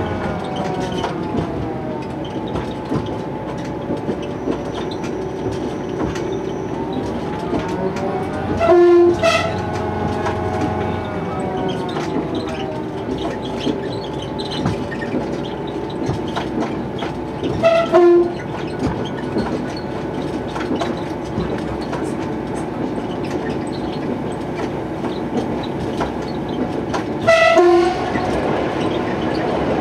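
Train running with a steady engine hum whose pitch rises and falls, its horn sounding three short blasts about nine seconds apart.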